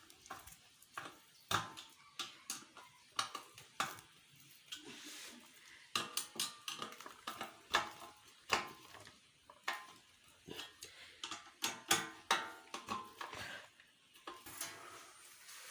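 Irregular metallic clinks and taps of tools and screws on a ceiling fan as its blades are fitted and tightened.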